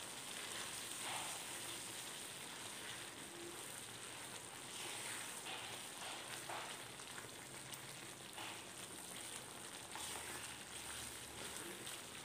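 Thick onion-tomato masala frying in oil in a pan, a faint steady sizzle and bubbling, with a wooden spatula stirring through it a few times. The oil has separated from the masala, the sign that it is well sautéed.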